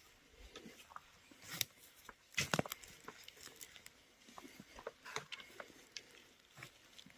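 Faint, irregular crackling and rustling of footsteps through dry forest litter and undergrowth, with small twigs snapping now and then; the loudest cluster comes a little over two seconds in.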